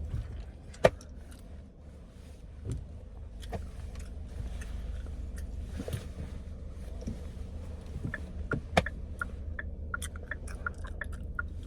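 Inside a car on a snow-covered road: a steady low rumble of the engine and tyres, with scattered clicks and knocks and a run of small ticks near the end, as the car ends up stuck in the snow.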